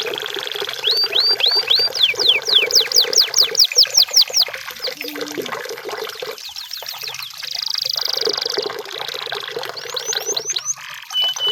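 Canary singing: runs of quick, repeated whistled notes, each falling in pitch, at about six a second, broken by a held high trill about eight seconds in and a short run of faster notes near the end.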